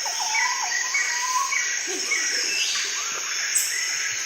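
Birds chirping in short repeated notes over a steady, high insect buzz, like crickets.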